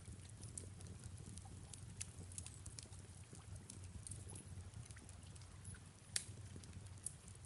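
Wood fire in a fireplace crackling faintly, with scattered sharp pops (the loudest about six seconds in), over a steady low rumble.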